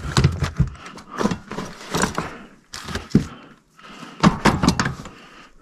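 Old metal hand tools clinking and clattering as they are handled and set down: a string of irregular knocks and clinks, with a short quiet gap about halfway through.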